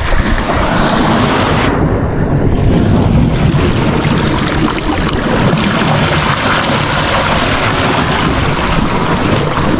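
Wind rushing across the microphone together with sea surf, a loud steady rush with a heavy low rumble; the hiss dips briefly about two seconds in.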